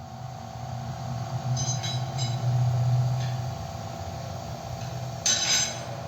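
A motor running steadily with a low hum, with a few light clinks about two seconds in and a short, loud burst of hiss about five seconds in.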